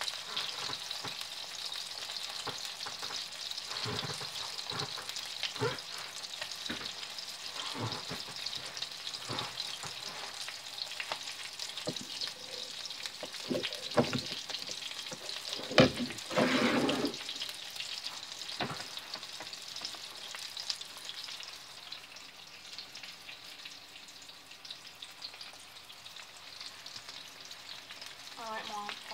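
Small meat patties sizzling in a nonstick frying pan: a steady crackle of hot fat with scattered small pops. A couple of louder knocks come a little past the middle, and the sizzle eases slightly toward the end.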